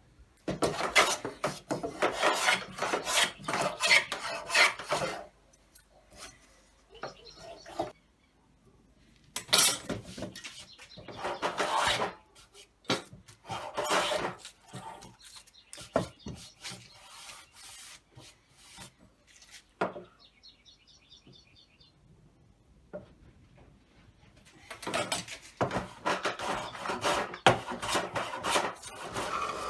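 Hand tool scraping wood in rapid back-and-forth strokes, in several bursts with pauses between.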